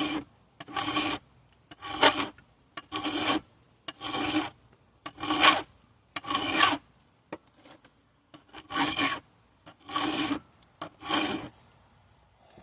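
Hand file rasping across a chainsaw chain's rakers (depth gauges), about ten firm strokes roughly a second apart with a short pause partway through. The rakers are being taken down heavily on a chain near the end of its life.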